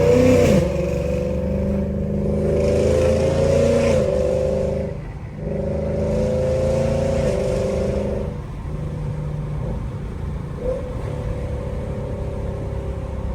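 Lexus 5.0-litre V8 exhaust droning under light throttle while cruising, the pitch rising gently and the sound easing off briefly about five seconds in and again near eight seconds.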